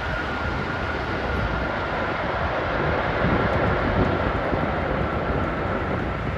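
Airbus A380's jet engines on landing: a steady rush of noise with a high whine that slowly falls in pitch, swelling a little about halfway through.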